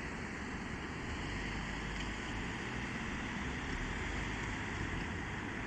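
Scania K270UB bus (ADL Enviro300SG body) running, a steady engine and road noise with no sudden events.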